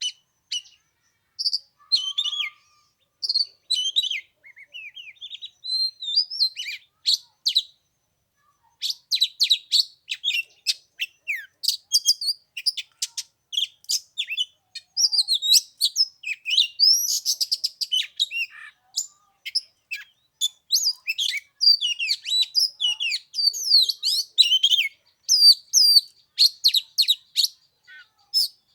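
Oriental magpie-robin singing: a long, rapid run of varied whistles, chirps and quick sweeping notes, broken by a pause of about a second roughly a quarter of the way through.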